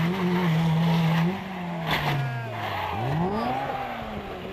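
Rally car engine at high revs; its note drops in pitch as it goes past, a little over a second in, then an engine note climbs and falls again.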